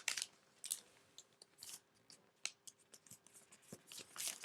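Folded paper being creased by hand through several thick layers: irregular crisp crackles and clicks as the paper is pressed and flattened, the loudest near the start and near the end.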